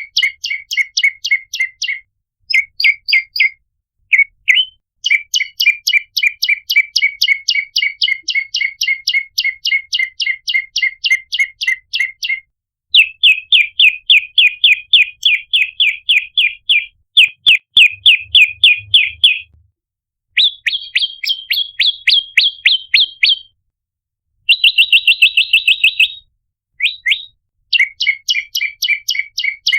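Prenjak lumut calling in a series of rapid, sharp chirp phrases, about six notes a second, each phrase lasting one to several seconds with short pauses between.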